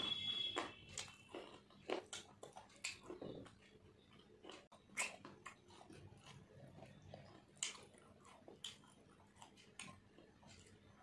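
A person chewing and smacking her lips while eating luchi and mutton curry by hand, with irregular wet mouth clicks and smacks. A brief high squeaky note sounds right at the start.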